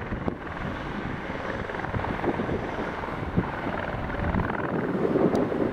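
Helicopter running, its engine and rotor making a steady noise that grows a little louder toward the end.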